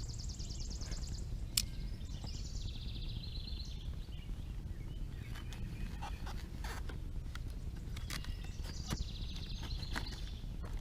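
Scattered light clicks and knocks of scooter parts and packaging being handled, over a steady low rumble. High, fast-pulsing trilling calls sound near the start, again a couple of seconds in and near the end.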